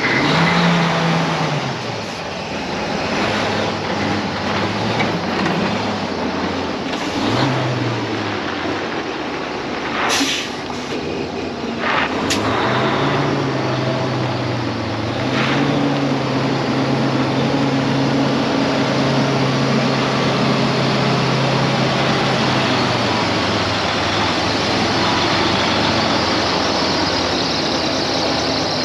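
Detroit DD13 diesel engine of a 2017 Freightliner Cascadia truck running, its pitch rising and falling twice, with two short hisses of air near the middle, then held steady at a raised speed for several seconds before settling back.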